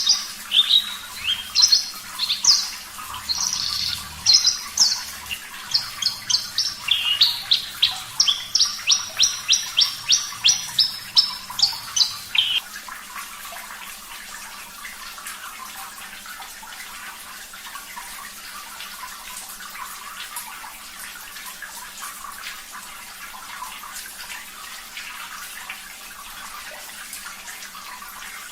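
Javan bush lark (branjangan) singing a fast song of short, high repeated notes, ending in an even run of about three notes a second and stopping about twelve seconds in. Running water continues underneath for the rest.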